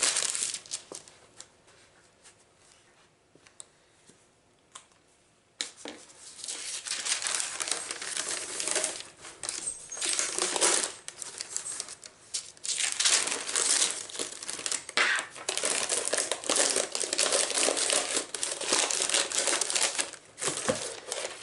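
Paper pattern crinkling and rustling as it is handled and fitted around a lampshade, starting about five and a half seconds in after a quiet stretch, with short pauses.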